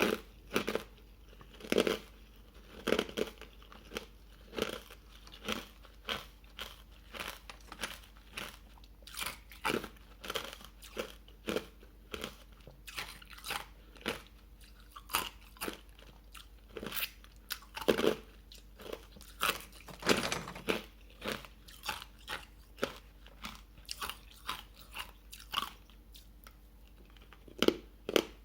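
Hard ice cubes dusted with matcha powder being bitten and chewed: a steady run of sharp crunches, about one or two a second.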